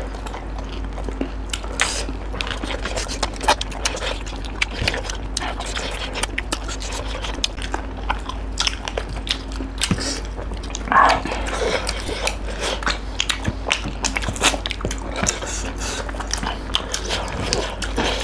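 Chewing and biting of fried chicken wings and duck curry with rice, with many small wet clicks and smacks of mouths and fingers throughout.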